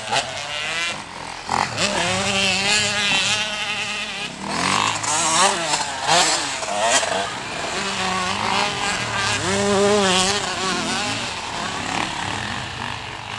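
Motocross dirt bike engines running hard, their pitch rising and falling again and again with throttle and gear changes.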